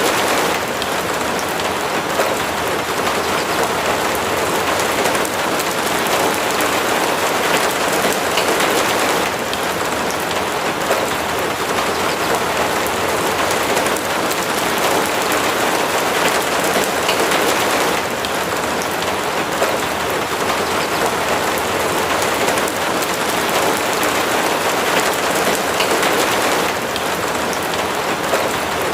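Steady heavy rain falling, a dense, even hiss with fine patter of individual drops.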